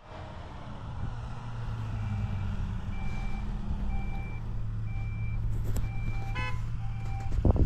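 Heavy vehicle's diesel engine running, with its reversing alarm beeping about once a second from about two seconds in. A rattle comes near the middle and a few knocks just before the end.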